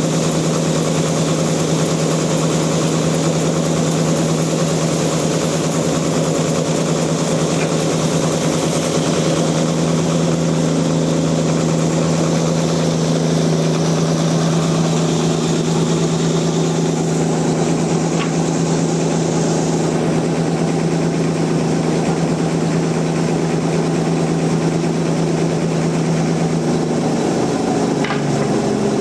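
Band sawmill running with a loud, steady machine hum; the pitch drops slightly near the end.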